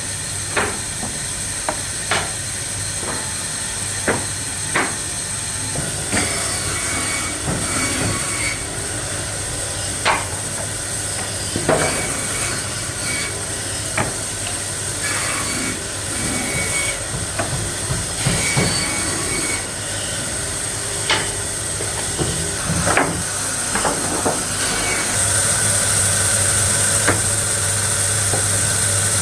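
Workshop machinery running steadily with a high hiss and a low hum, with scattered sharp knocks and clacks of wood being handled; the running gets a little louder near the end.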